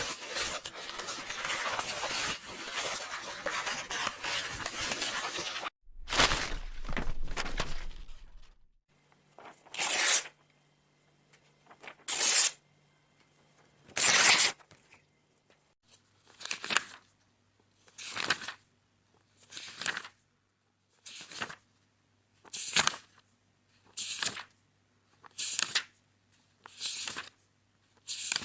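Paper tearing and crackling for about the first six seconds, then a short burst, then single book pages being turned: three louder page flips about two seconds apart, followed by a steady run of page turns about every second and a half.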